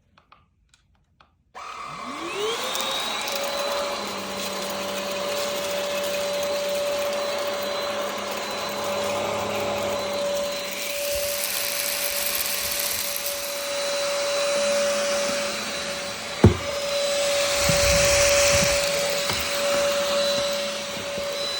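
Vactidy cordless stick vacuum switching on about a second and a half in, its motor whine rising as it spins up and then running steadily with a high whine and rushing air while it sucks up dog hair. There is a single sharp knock about two-thirds of the way through.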